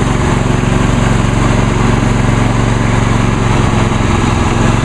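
2001 Huskee lawn tractor's 22 hp Briggs & Stratton Intek V-twin engine running steadily as the tractor drives forward. The owner says it still isn't running quite right because of carburetor issues.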